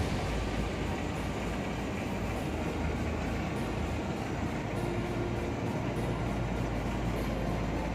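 Tugboat's diesel engine running with a steady low rumble and a constant hiss over it.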